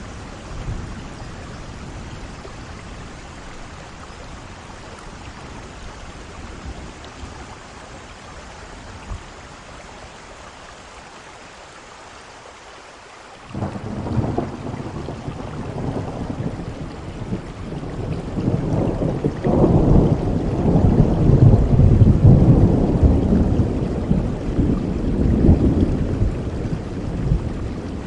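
Steady rain, then about halfway through a long rolling rumble of thunder starts abruptly, builds to its loudest a few seconds later and slowly dies away under the rain.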